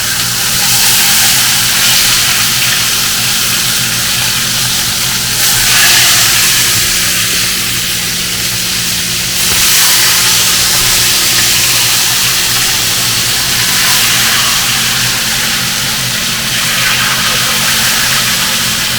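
Chicken thighs sizzling in hot coconut oil in a cast iron skillet: a loud, steady hiss that swells a little a few times, over a steady low hum.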